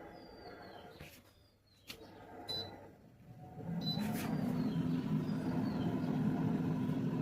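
A few clicks and two short high beeps, like an appliance's control panel being pressed. About halfway through, an air fryer's fan starts and runs with a steady hum.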